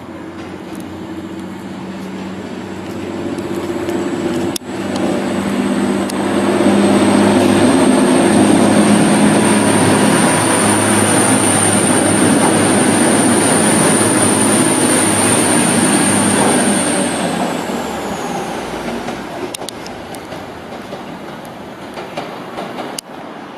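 TransPennine Express diesel multiple unit running through the station without stopping: its engine hum builds as it approaches, it passes loud with a high whine and wheel noise for about ten seconds, and the whine drops in pitch as it draws away. A few sharp clicks come through along the way.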